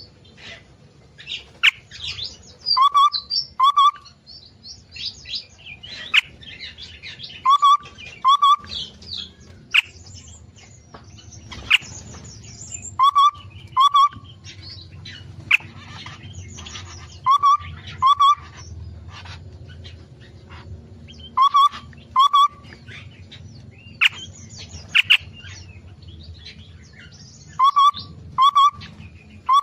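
Aviary songbirds calling and chirping: a loud two-note call repeated about every four to five seconds, with quick high chirps and chattering in between.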